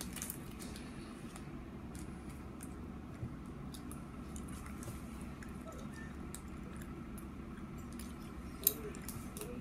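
Faint clicks and squishy mouth sounds of someone chewing a snack close to the microphone, over a steady low hum, with one sharper click near the end.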